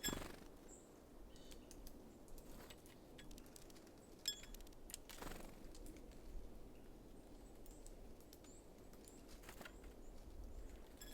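Small songbirds giving a few short, high call notes, with soft knocks and taps at the bird feeder: a sharper knock at the start and fainter ones about five and nine and a half seconds in. Quiet overall.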